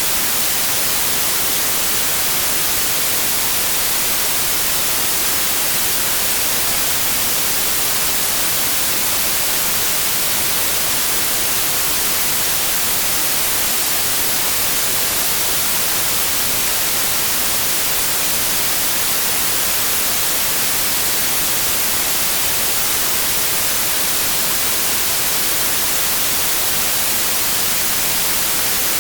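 Electronically generated white noise: a steady, unchanging hiss with flat power across frequencies, used as a noise-masking signal.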